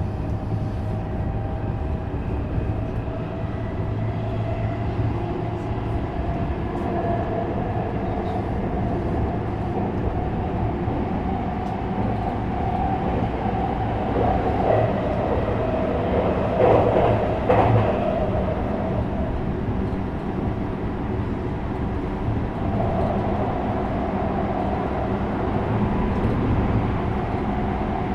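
JR West 321 series electric train running: steady wheel-on-rail rumble with a held tone from the running gear. Around the middle there is a louder stretch with several clacks.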